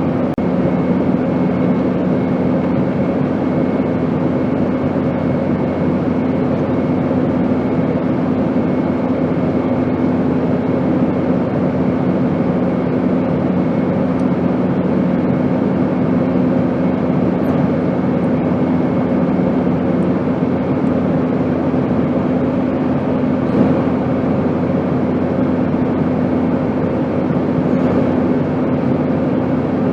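Steady airplane engine drone: an even rushing noise with a constant low hum held at a few fixed pitches.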